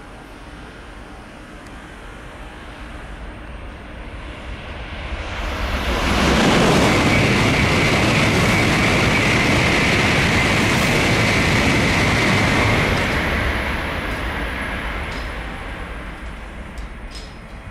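Tokaido Shinkansen bullet train passing through the station at high speed without stopping: a rushing noise with a steady high hiss that builds over a few seconds, stays loud for about seven seconds, then fades away.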